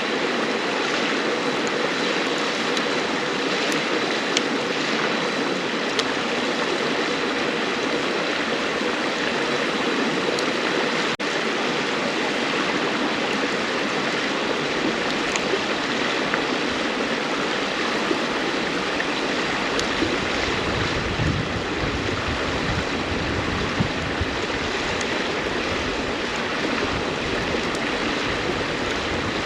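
River water rushing and babbling steadily, with scattered sharp pops from a wood campfire crackling. A low rumble joins in from about two-thirds of the way through.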